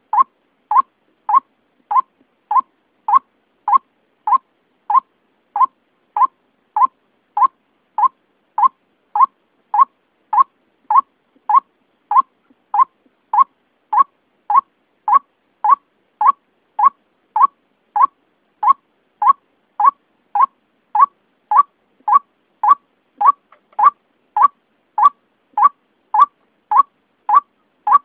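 White-breasted waterhen (ruak-ruak) lure call: one short, clipped note repeated at a steady pace of nearly two a second, with clean silence between notes.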